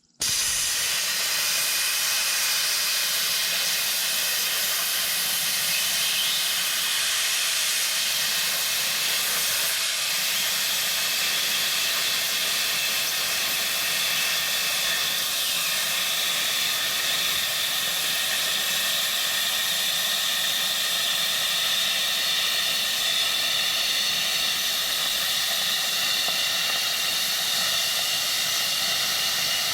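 Hobart Airforce 27i plasma cutter cutting through 5/8-inch steel plate: a loud, steady hiss of the arc and air jet that switches on abruptly at the start and runs unbroken.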